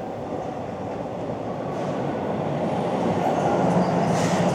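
TTC subway train pulling into the station, its rumble growing steadily louder, with a low steady hum coming in near the end.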